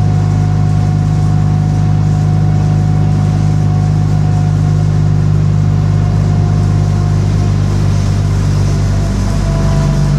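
Bristol RELL6L bus's diesel engine running steadily, its note easing slightly lower near the end.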